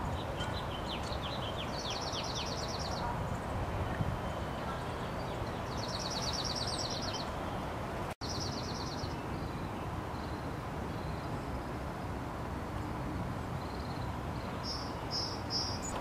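Small birds calling: three short, rapid trills of high notes and a few faint falling chirps, then three short high notes near the end, over steady outdoor background noise.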